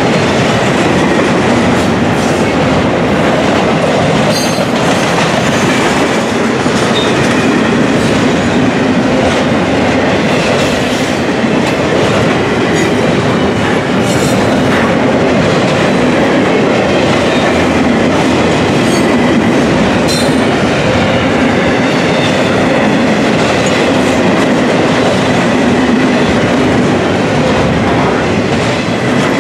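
Double-stack intermodal container well cars of a freight train rolling past at close range: a loud, steady rumble of steel wheels on rail, with irregular clicks and clatter from the wheels and couplers.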